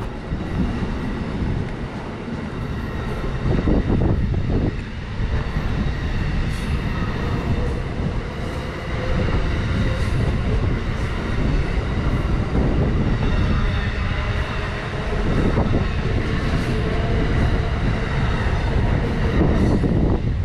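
A train running past on the rails: a loud, steady rumble of wheels on track with irregular clicks.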